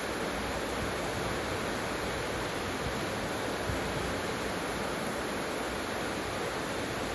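Heavy rain pouring down on clay-tile roofs and palm trees: a steady, dense hiss with no breaks.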